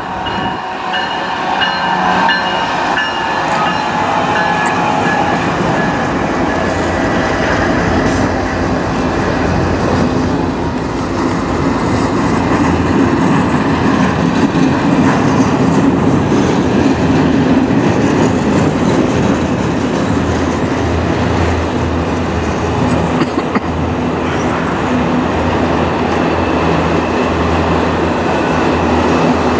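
A GE ET44AC diesel locomotive's engine passes first, then a long string of autorack freight cars rolls past slowly with a steady rumble and wheel clatter on the rails.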